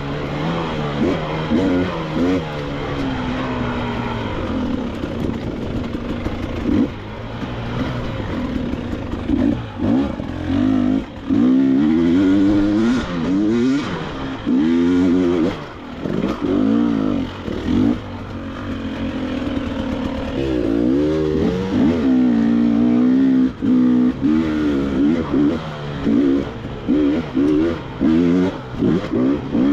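KTM 300 XC-W two-stroke dirt bike engine being ridden through technical trail, its pitch rising and falling as the throttle is worked. It runs fairly steadily at first, then gets quick repeated throttle blips from about ten seconds in, and again through the last third.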